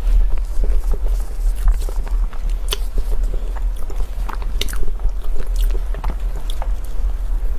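Close-up chewing and biting of crunchy food: irregular crisp crunches and clicks over a steady low hum.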